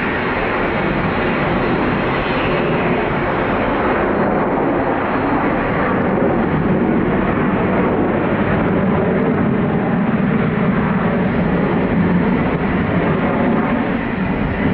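Widebody jet airliner's engines, a loud steady rush that swells a little in the middle.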